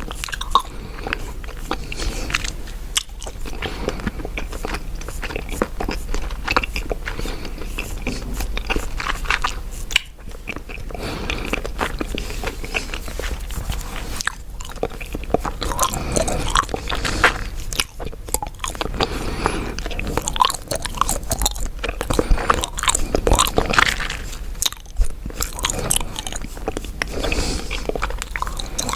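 Close-miked chewing gum: a steady run of wet clicks and smacks from the mouth, with a few brief pauses.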